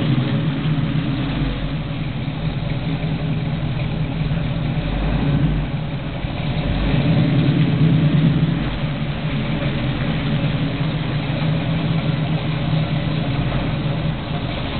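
1969 Chevrolet El Camino's engine running at low revs with a steady rumble, briefly getting louder a couple of times, about five and eight seconds in, as the throttle is opened.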